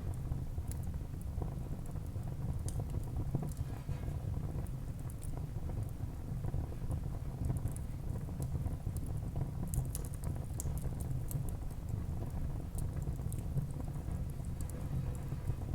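Wood fire burning in a fireplace: irregular small crackles and pops from the burning logs over a steady low rumble.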